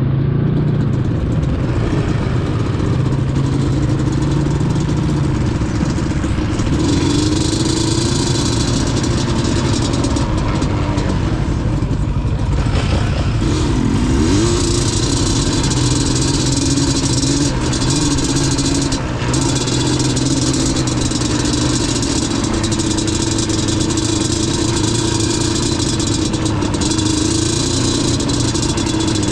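Yamaha Banshee's twin-cylinder two-stroke engine running under way as the quad is ridden, its note rising and falling with the throttle.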